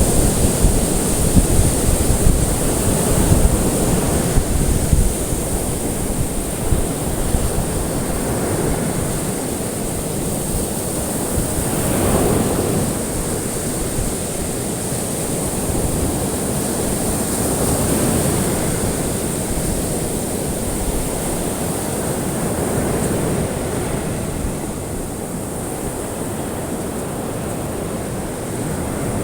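Recorded ocean waves washing in as a steady rush, with slow surges that swell about twelve and eighteen seconds in.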